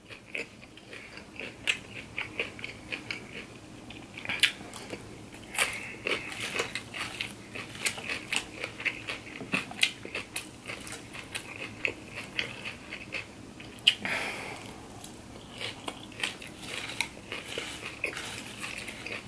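Close-up chewing of a crunchy raw salad of shredded cabbage and kale, a run of short crisp crunches, with a fork picking through the salad in a glass baking dish. One sharper click comes about fourteen seconds in, followed by a brief rustle.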